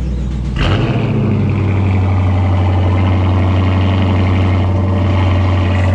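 Dodge Charger R/T's 5.7-litre Hemi V8 cold-starting about half a second in: it catches with a sudden burst, flares and then settles into a steady fast cold idle. Another engine is already idling underneath it.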